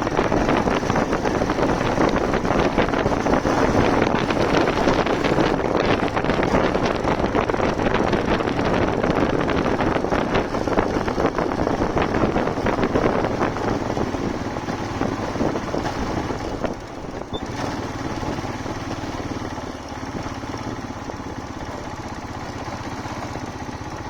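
Motorcycle engine running while riding, with heavy wind rushing over the microphone. After about fifteen seconds the wind noise falls away, leaving the engine's steady low note, quieter.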